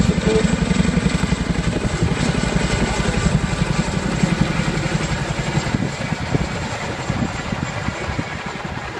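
Boeing Chinook tandem-rotor helicopter flying: rapid, even thudding of the rotor blades with a faint steady high whine, fading over the second half.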